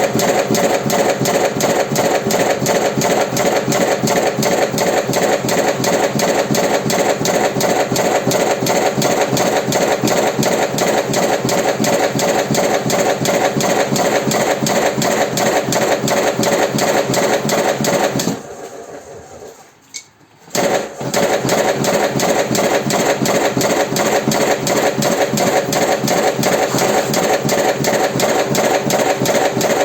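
Automatic electric cigarette-filling machine running, a steady rapid mechanical clatter of about four strokes a second. It stops for about two seconds some two-thirds of the way through, then starts up again at the same pace.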